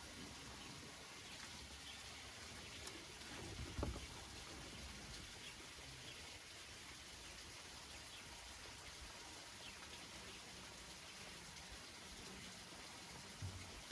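Rain falling on banana leaves: a faint, steady patter with scattered single drop ticks, and a heavier low knock about four seconds in and another shortly before the end.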